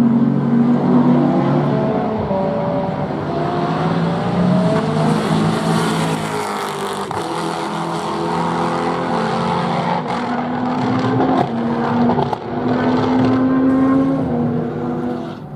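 Racing car engines on track, passing at speed and changing gear, the pitch climbing and dropping in steps as they accelerate and brake. More than one engine is heard at once.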